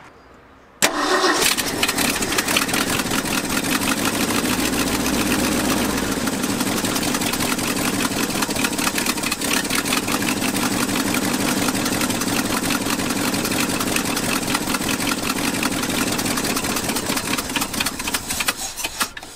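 Ford 460 V8 with a four-barrel carburetor starts about a second in and runs rough at idle, not on all cylinders, while extra fuel is squirted into the carburetor. With the added fuel it wants to die out, which the owner takes as a sign it is running too rich, probably from a blown power valve.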